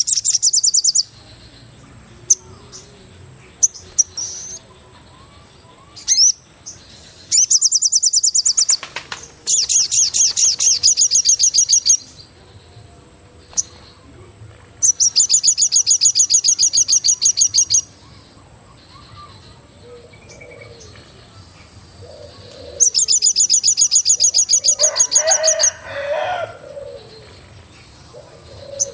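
Forest ambience: a bird repeats a loud, fast, high trill in four bursts, each one to three seconds long, over a faint steady high whine. A lower, shorter call comes near the end.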